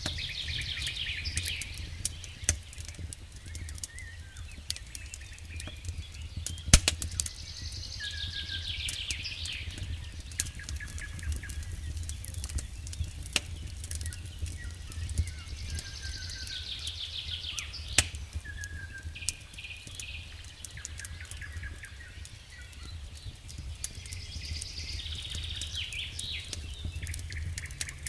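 Campfire crackling with scattered sharp pops, the two loudest about 7 and 18 seconds in, over a low steady rumble. A songbird repeats a short descending trilled song about every eight seconds, with a few other brief bird calls between.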